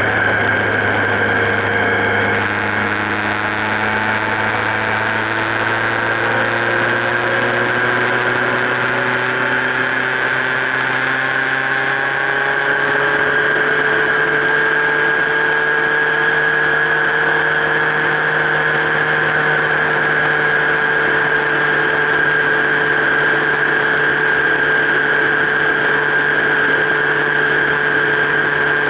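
Motorcycle engine running steadily at highway speed, heard through a camera mounted on the bike's frame, with mechanical whine and vibration. Its pitch rises gradually over the first half, then holds steady.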